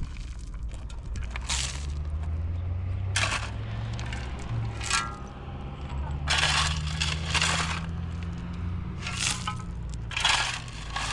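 A series of short crunching, breaking noises, about seven spread over the stretch, above a low steady hum.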